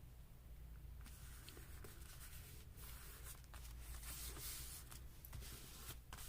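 Faint paper rubbing and rustling with a few light taps, as pieces of paper are handled and pressed down by hand, over a steady low hum.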